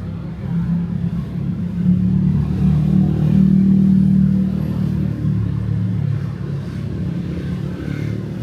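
Street traffic at night: the low engine hum of a passing vehicle swells to its loudest about three to four seconds in, then eases back into the steady traffic rumble.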